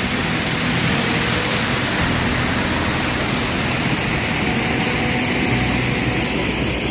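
Mirror Lake Falls' waterfall: a steady, even rush of falling water.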